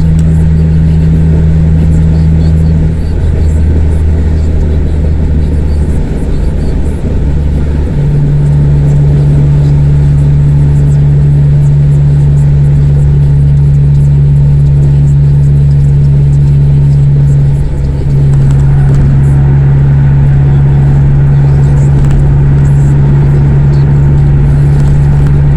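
Honda CR-V's four-cylinder engine running through an exhaust with the resonator and muffler deleted: a loud, steady low drone. It holds an even pitch, shifting step-wise a few times, near 3, 8 and 18 seconds in.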